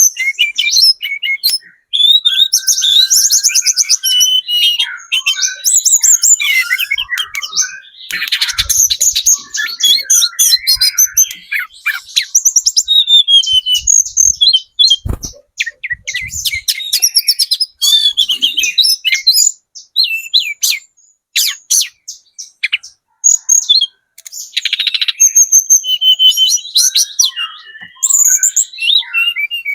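Flowerpecker (tledekan gunung) singing fast and continuously: a run of sharp, high-pitched chirps and rapid trills with only short pauses.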